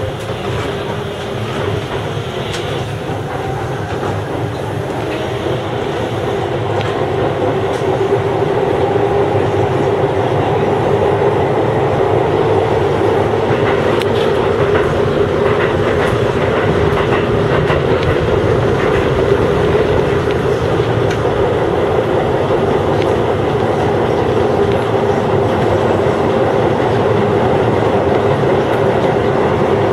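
Chiba New Town Railway 9000-series electric train running along the line, heard from inside the front car: steady running noise with a steady whine from the traction motors and an occasional click over rail joints. It grows louder over the first several seconds as the train picks up speed, then holds steady.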